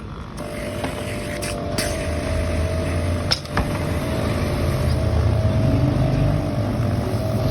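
A machine running steadily with a low hum and a steady whine. There are a couple of sharp clicks about two and three seconds in.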